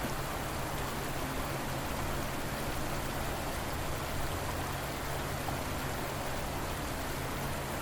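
River water flowing in a steady, even rush with no change.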